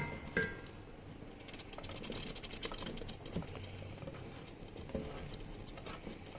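Lentils, kidney beans and chopped tomatoes sizzling and crackling in hot oil and butter in a cooking pot: a dense patter of fine ticks, with two sharp knocks near the start.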